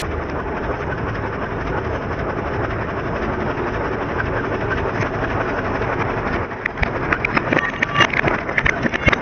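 Tractor engine running steadily. From about two-thirds of the way in come a string of sharp cracks and snaps as objects are crushed under it.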